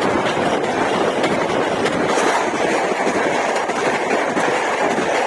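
Train passing close by, with a loud, steady rush of wheel and rail noise and wheels clacking over rail joints.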